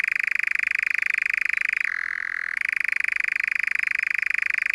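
Nightjar churring: one long, continuous, rapidly pulsed insect-like trill. It dips to a slightly lower pitch for about half a second around two seconds in.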